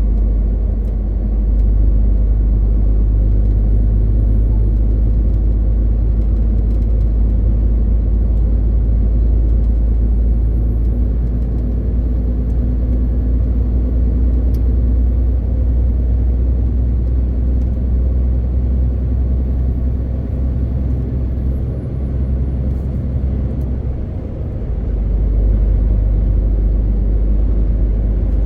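MAN TGX 18.520 truck's six-cylinder diesel engine running under way, a steady low rumble with road noise. The rumble eases for a few seconds near the end, then comes back up.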